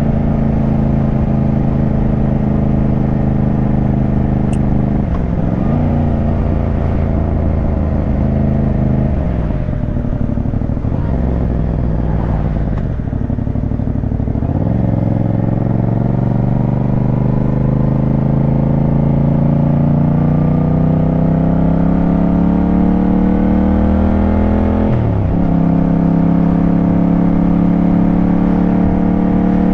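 Yamaha 689 cc parallel-twin motorcycle engine under way. Its pitch holds steady, then eases off and wavers with the throttle closed. It climbs steadily for about ten seconds under acceleration, then drops sharply at an upshift near the end and runs on steady.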